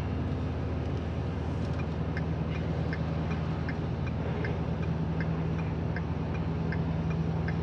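Steady low drone of a Ford F-250 diesel pickup driving, heard inside the cab, with a light regular ticking about twice a second.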